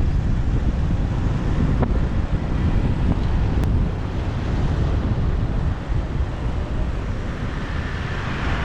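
Wind rumbling on the microphone over a motorbike's running engine and street traffic while riding.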